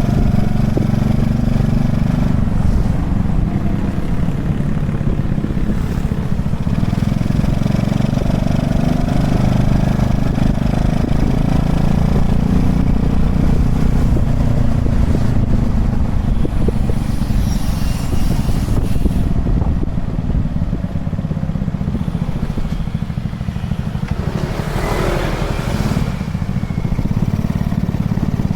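Honda Chaly minibike's small single-cylinder four-stroke engine running while riding, with a steady low rumble. Two brief louder noises come through, one a little past the middle and one near the end.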